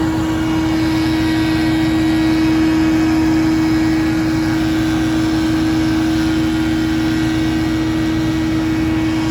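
Large stand-on leaf blower running steadily at full throttle: an engine and fan with a strong constant hum over a steady rush of air.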